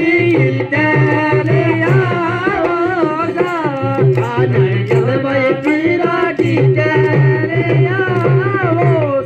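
Live Rajasthani folk music: a hand drum keeps a steady rhythm under a melody that slides and bends in pitch.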